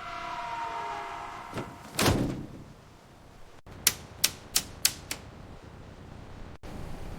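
Workshop work sounds: a ringing tone that fades over the first second, a knock and then a heavier thud, and after a sudden cut five sharp clicks, about four a second.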